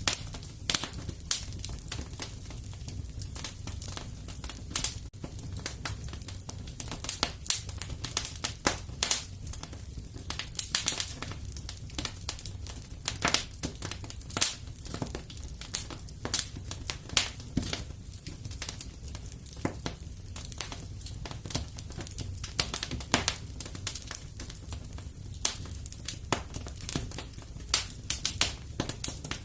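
Wood fire crackling in a fireplace: a steady low rumble of burning with frequent irregular sharp pops and snaps.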